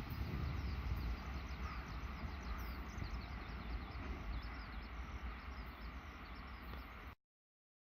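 Low rumble of a freight train going by and slowly fading away, with small birds giving quick, high, falling chirps over it; the sound cuts off abruptly near the end.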